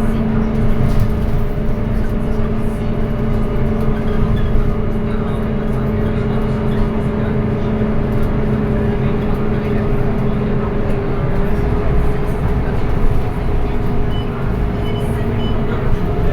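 Scania K230UB city bus's diesel engine and ZF automatic gearbox, heard from inside the bus while it drives: a steady drone with a held whine. About eleven seconds in, the tone drops away and the pitch glides to a new level, as with a gear change.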